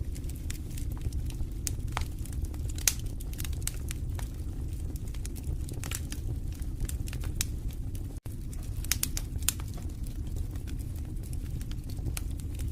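Wood fire burning in a fireplace: steady low rumble of the flames with constant irregular crackling and snapping of the burning logs, a few sharper pops standing out.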